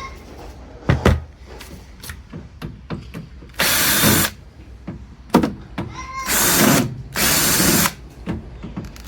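Cordless drill-driver running in three short bursts of about half a second each, backing out screws, with sharp knocks of metal parts about a second in and again just past halfway.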